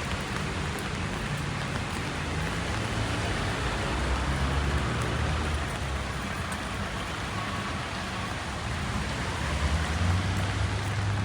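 Steady rain falling on a city street, an even hiss, with a low rumble of traffic underneath that grows louder near the end.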